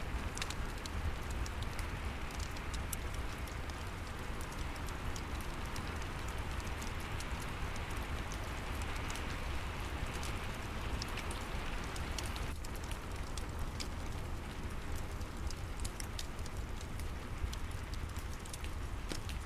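Steady rain falling, with scattered sharp crackles from a fireplace fire over a low rumble.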